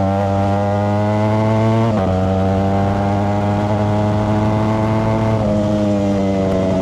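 Ducati Streetfighter V4S's 1103 cc V4 engine running through a Zard exhaust. The note climbs for about two seconds, then drops sharply, as at an upshift, and holds fairly even with a smaller step down later on.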